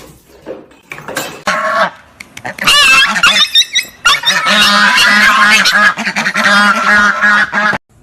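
Loud, repeated honking animal calls that run almost continuously from about three seconds in and cut off just before the end, with a few shorter calls before them.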